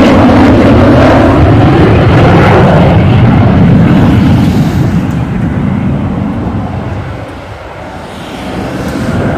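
Jet noise from a Northrop F-5 Tiger III fighter's twin J85 turbojets as it flies past: loud for the first half, fading to its lowest about eight seconds in, then growing louder again near the end as the jet comes back around.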